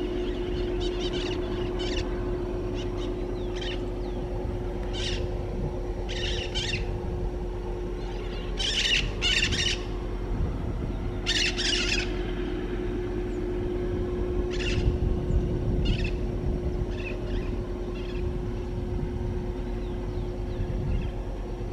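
Birds calling in short bursts every second or two, over a steady low rumble with a steady hum.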